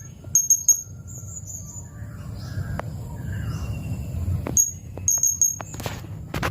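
Blue-crowned hanging parrot (serindit) giving short, shrill, very high-pitched calls in quick runs of two or three, over a low background rumble.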